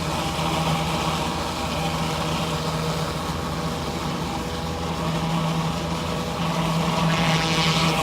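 Gas pressure washer engine running steadily under load, with the hiss of high-pressure water from a surface cleaner spraying concrete; the hiss grows brighter near the end.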